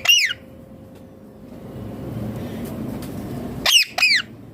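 Indian ringneck parakeet giving a shrill two-note call twice, each note sliding down in pitch: once at the start and again near the end. A steady low rumble runs underneath.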